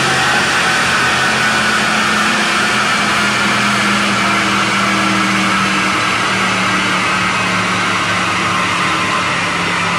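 Audi RS Q8's twin-turbo V8 running at a steady speed on a chassis dynamometer, with a dense rushing noise under a steady engine note.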